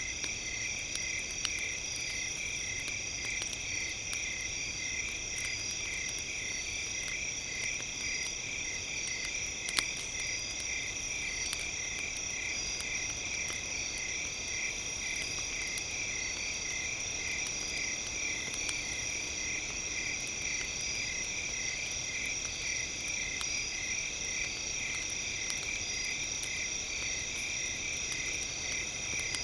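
Campfire crackling with scattered small snaps and one louder pop about ten seconds in, under a steady layer of high, evenly pulsing tones.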